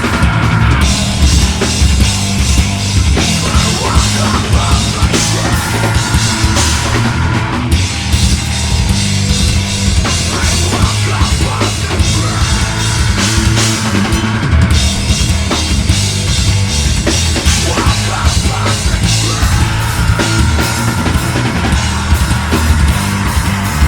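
A heavy metal band playing live at full volume, with a drum kit pounding out fast, dense hits over the rest of the band.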